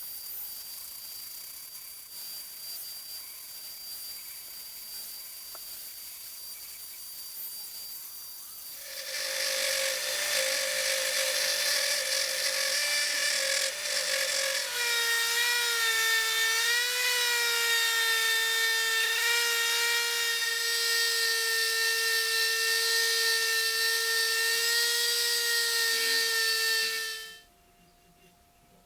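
Small high-speed power tool, such as a rotary tool, whining at a steady pitch. It dips in pitch a few times as it bears on the work, then shuts off suddenly near the end. For the first third there is only a quieter hiss of light work.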